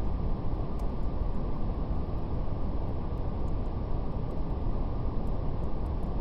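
Steady brown noise, a deep even rushing with most of its weight in the bass, with the faint scattered crackle of a fire ticking over it.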